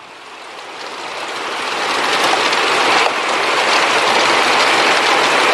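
Heavy rain pouring down in a thunderstorm downpour, a dense steady hiss that swells over the first couple of seconds and then holds.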